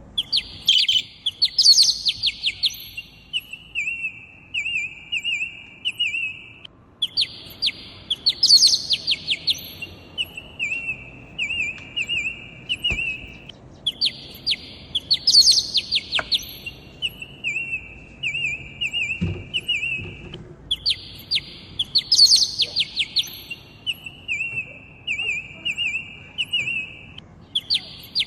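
Bird song: a phrase of buzzy trills and rapid high chirps followed by a run of short repeated chirps, the same phrase coming round again about every seven seconds, four times, like a looped recording.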